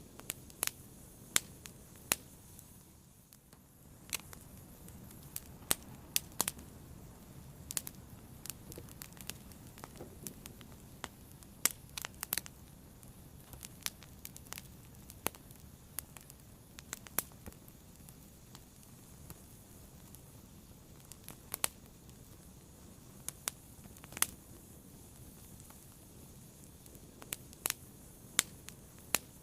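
Fire burning and crackling: irregular sharp pops and snaps, sometimes in quick clusters, over a low steady hiss.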